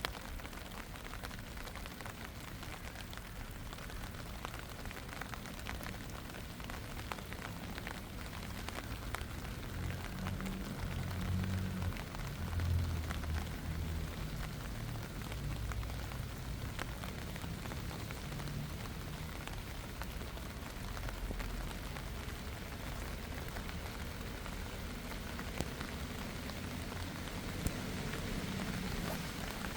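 Steady rain falling, with many small drop impacts. A low rumble swells briefly about ten seconds in.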